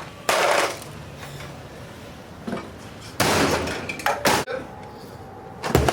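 A refrigerator being smashed with a hammer: a loud crash about half a second in, another a little after three seconds, then sharp knocks.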